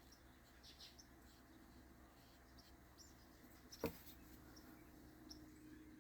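Faint, short, high bird chirps from outdoors under near-quiet room tone, with one sharp click about four seconds in.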